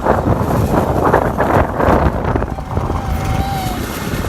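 Quad bike engine running during a ride, a steady low rumble with a heavier rush of noise over the first two seconds or so that then eases off.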